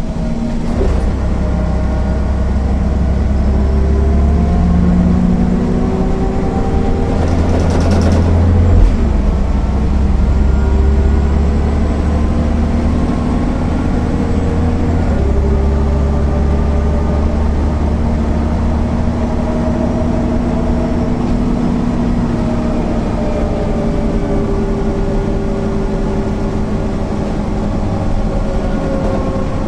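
MAN NL 262 city bus's diesel engine running under way, its note rising and falling in pitch as the bus drives, through a ZF 5HP 600 automatic gearbox. A brief loud noise comes about nine seconds in.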